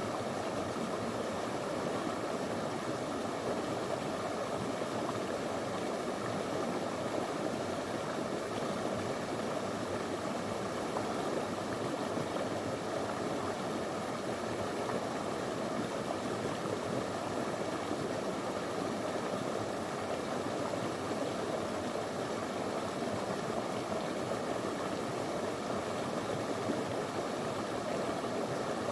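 Small shallow river flowing over stones, a steady even rush and babble of water.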